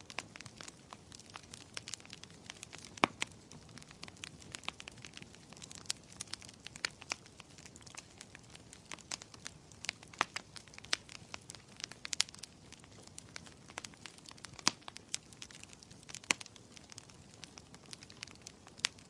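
Wood fire burning in a fireplace, logs crackling with frequent irregular sharp pops over a soft steady hiss.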